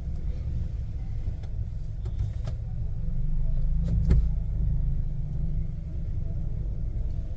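Low, steady rumble of a car driving in city traffic, with a sharp knock about four seconds in.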